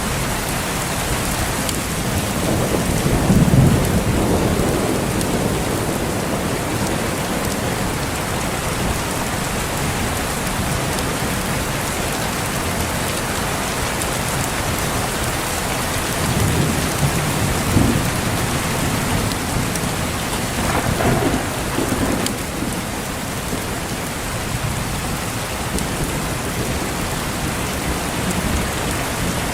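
Steady heavy rain pouring down, with low rolls of distant thunder rumbling through it: one about three seconds in, another around the middle, and a third about two-thirds of the way through.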